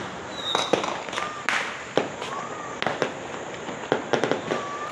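Fireworks and firecrackers going off all around: sharp bangs, some close and loud and others distant, at a few a second at irregular intervals, over a continuous background of far-off bangs and crackle.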